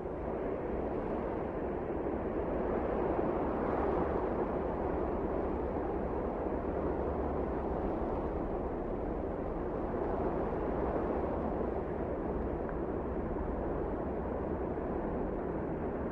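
Wind blowing steadily: a dense rushing noise with a low rumble underneath, swelling slightly a few seconds in.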